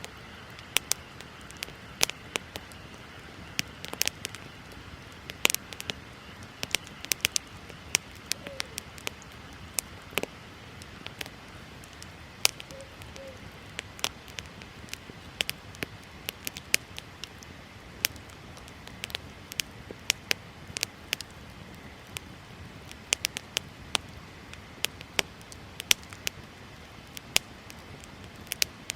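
Wood bonfire crackling, with sharp irregular pops and snaps several times a second over a steady low hiss of burning.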